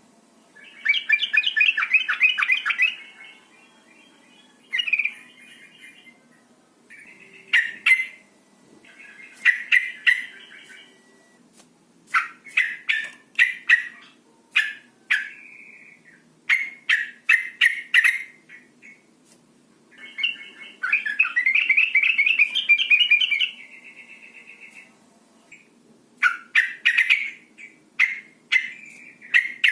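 Sooty-headed bulbul (trucukan) calling: clusters of short, sharp 'cuk' notes and two longer chattering phrases of a few seconds, with short pauses between. The uploader presents these as a female's calls in breeding condition, luring males to call.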